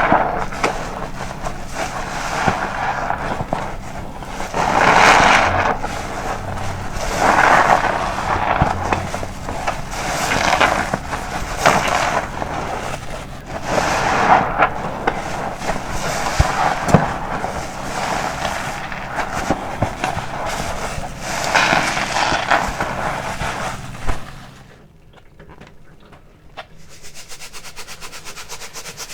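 Soapy car wash sponge being squeezed over and over, wet squelching swells about every two seconds. It goes much quieter for the last few seconds, leaving a fine fast crackle.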